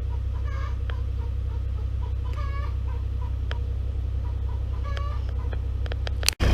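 Hens clucking: three short, drawn-out calls about two seconds apart, over a steady low hum.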